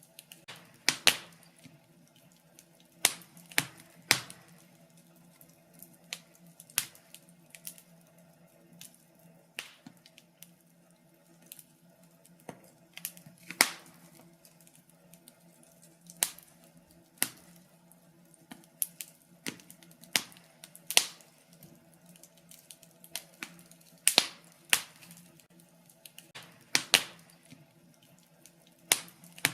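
Fireplace fire crackling, with sharp irregular pops, some single and some in quick clusters, over a faint steady hum.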